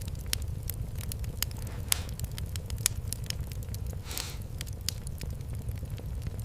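Wood fire crackling in a fireplace: irregular sharp pops and snaps over a steady low rumble, with a short hiss about four seconds in.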